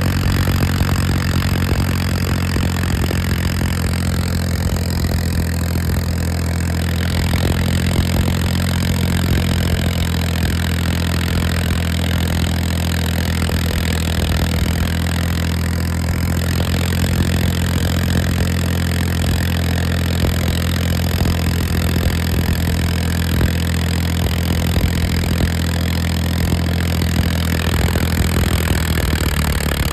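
Farmtrac tractor's diesel engine running at a steady speed, a constant low drone with no change in revs.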